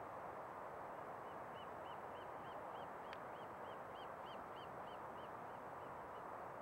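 A bird calling a long run of short, clear, arched notes, about three a second, swelling and then fading over about five seconds, over a steady background hiss.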